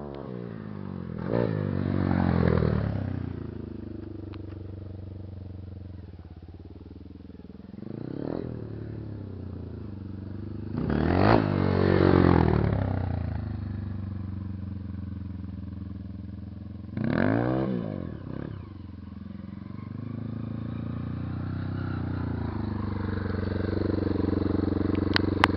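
Motocross dirt bikes revving past one after another, four times, each engine surging and falling away, over another motorcycle engine running steadily throughout. Near the end the engine sound slowly grows louder.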